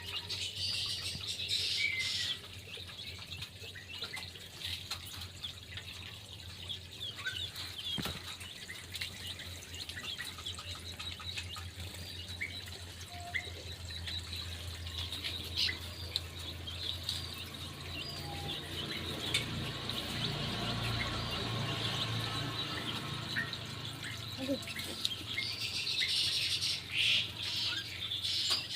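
Small birds chirping and calling, many short high chirps in a dense chatter that grows louder near the start and near the end, over a steady low hum.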